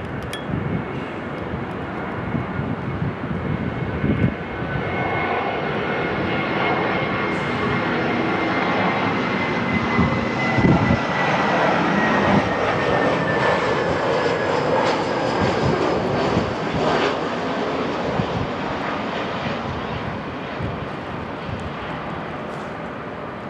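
Jet airliner's engines passing by, the noise swelling to a peak about halfway through and then slowly fading, with a high whine that slides down in pitch as it goes.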